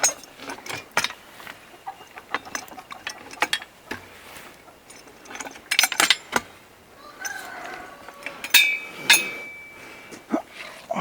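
Scattered sharp clicks and knocks, with brief chicken clucking and calls a little past the middle.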